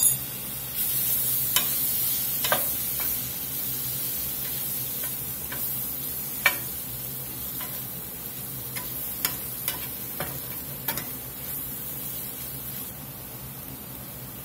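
Minced garlic, onions and mushrooms sizzling in a cast-iron skillet, with a utensil scraping and clicking against the pan now and then as it stirs the garlic in. The sizzle slowly fades.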